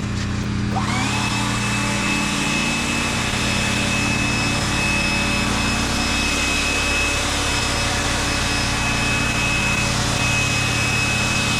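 Gas pressure washer engine running steadily. About a second in, a loud hiss with a high whine starts, quickly rising in pitch, then holds steady, dipping briefly near the end.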